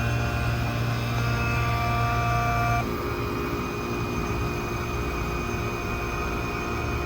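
Vacuum pump running steadily, evacuating a refrigerant system. About three seconds in its sound shifts and drops slightly in level, then it runs on evenly.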